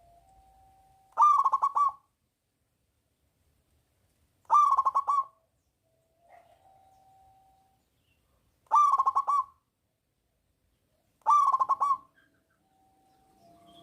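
Zebra dove (perkutut) cooing: four short phrases of quick rolling notes, each under a second, a few seconds apart. Faint, softer cooing is heard between the phrases.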